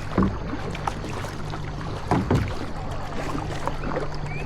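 Kayaking on a river: water noise with a couple of short knocks or splashes from the paddles or hull, over a steady low hum.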